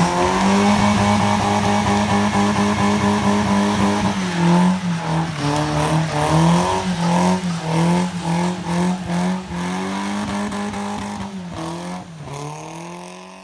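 BMW E36 saloon doing a burnout: its engine is held at high revs on a steady note, then from about four seconds in the revs rise and fall over and over, roughly twice a second, as the throttle is worked. The sound fades out near the end.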